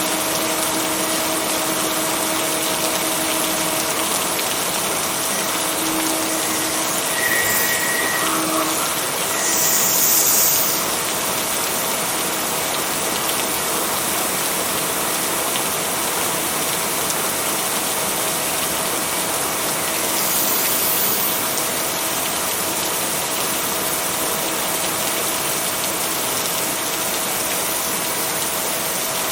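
Steady heavy rainfall, an even hiss, with brief louder surges about ten and twenty-one seconds in, over a faint steady low tone.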